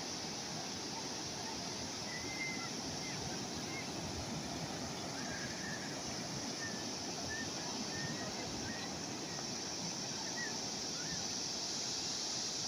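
Calm sea waves washing steadily on the shore, with a few faint short high calls scattered through.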